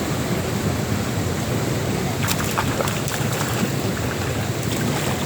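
Steady wind rushing over the microphone, with a few short clicks about two seconds in and again near the end.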